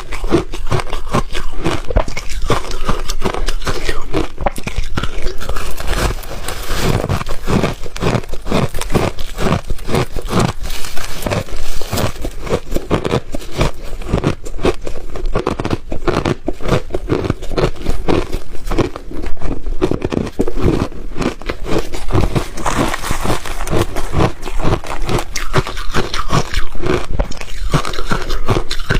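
Close-miked biting and chewing of refrozen ice: a continuous rapid run of loud crunches and crackles as the ice shatters between the teeth.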